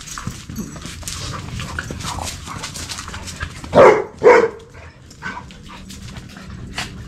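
A dog barks twice in quick succession, about half a second apart, midway through.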